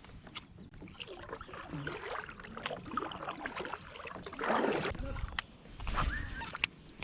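Kayak paddle strokes in the water, with sharp clicks and knocks in between and one louder splash about four and a half seconds in.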